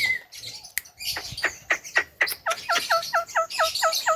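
Javan myna (jalak kebo) calling: a run of sharp clicks, then a quick series of short, falling chirps, about five a second, through the second half.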